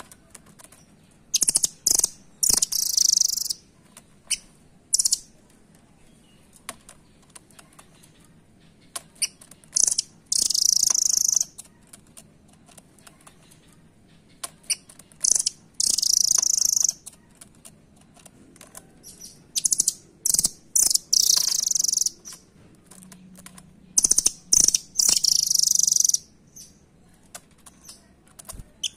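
Blue nuthatch (rambatan doraemon) calling: loud bursts of high, rapid chirping, each a second or two long, repeated every few seconds, with scattered sharp clicks between them.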